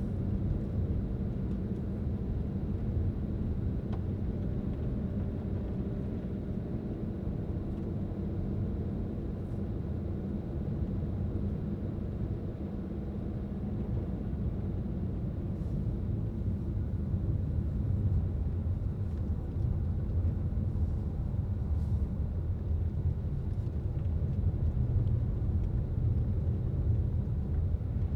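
Car driving steadily, a low rumble of road and engine noise that grows a little louder in the second half.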